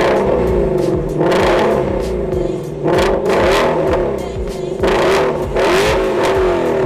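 A performance car's engine revved repeatedly, the exhaust note rising and falling in about five surges.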